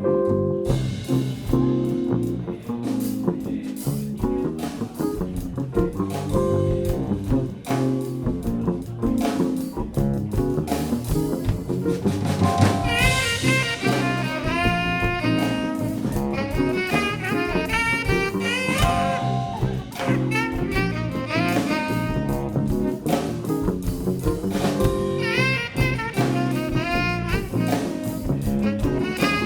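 Live jazz band playing an upbeat groove with bass and drums; a melody line, likely a saxophone, enters about twelve seconds in and carries the tune.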